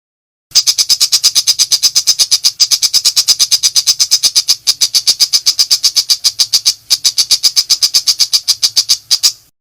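Long-tailed shrike (pentet) giving a harsh, rapid-fire chatter burst: a steady train of about nine shrill notes a second that starts abruptly about half a second in, with two short breaks, and stops just before the end.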